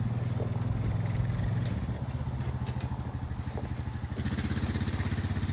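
A vehicle engine running steadily with a fast, even pulse, dropping slightly in pitch about two seconds in.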